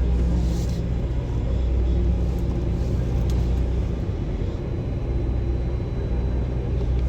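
Semi-truck diesel engine running steadily at low revs, a deep even rumble, as the tractor is manoeuvred to back under a trailer.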